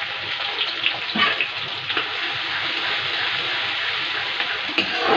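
Chopped onion, garlic and green chillies sizzling steadily in hot oil in a steel kadai, with a few light ticks.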